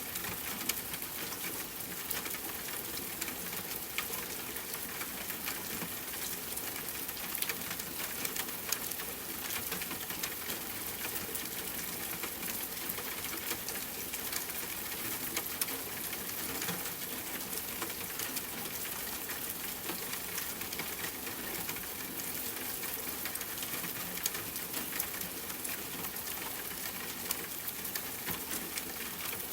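Steady rainfall with a crackling wood fire, small sharp pops scattered through an even hiss.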